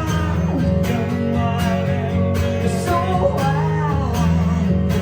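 Live guitar-led music: guitar played to a steady beat, with a pitch-bending melodic line over it, between sung lines.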